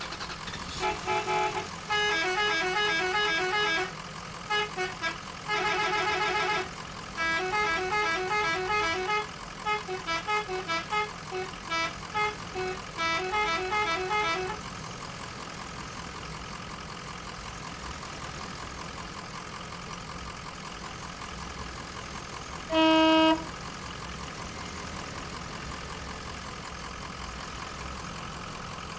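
A miniature RC truck's sound unit plays a rapid multi-note horn tune in quick runs for about the first fifteen seconds, over a steady engine hum. The hum carries on alone, broken by one short horn blast near the end.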